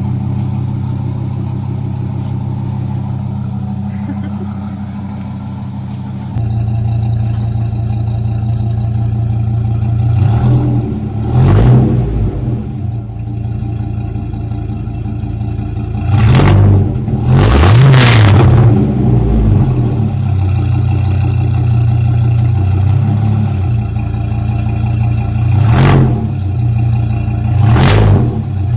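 2001 Ram's V10 gasoline engine, straight-piped through a 3-inch Aero Turbine muffler, idling while still warming up from a cold start. The idle steps up about six seconds in, and the engine is revved in several short blips.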